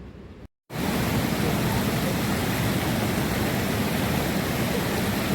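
Heavy rain pouring down: a loud, steady hiss that starts abruptly after a brief dropout about half a second in.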